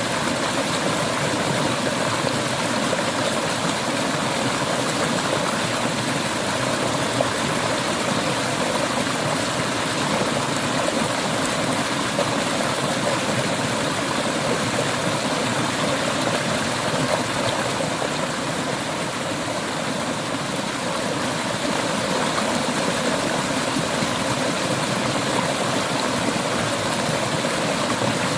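River water flowing over rocks: a steady, even rushing and babbling that holds at one level throughout.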